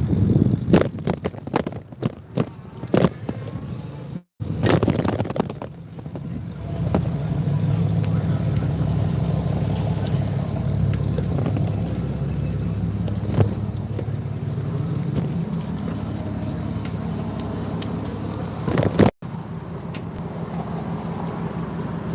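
Motorbike engine running steadily at a low idle-like pitch, after a few knocks and clicks in the first seconds; the sound cuts out briefly twice.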